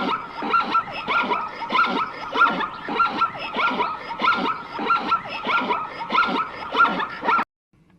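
An animal calling over and over, about two short calls a second, each with a falling pitch, until it cuts off abruptly near the end.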